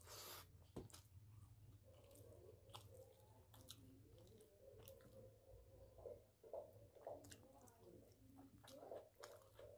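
Faint close-up chewing and wet mouth sounds of a man eating curry and rice by hand, small irregular smacks and clicks over a steady low hum.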